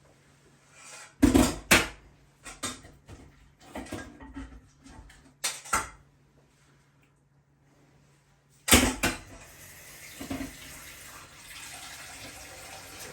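Kitchen pots, bowls and utensils clattering and knocking in several bursts, then after one loud knock a tap runs steadily into the sink.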